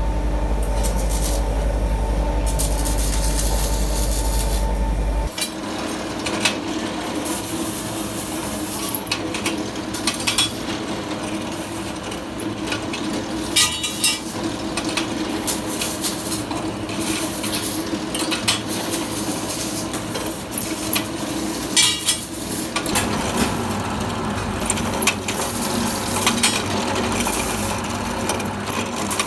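A workshop machine runs with a steady low hum, then shuts off abruptly about five seconds in. After that, metal parts clink and knock irregularly over a fainter steady hum as they are handled.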